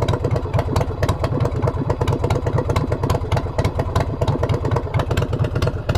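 Motorcycle with aftermarket exhaust pipes idling on the enricher during a cold-start warm-up: a steady, even train of exhaust pulses.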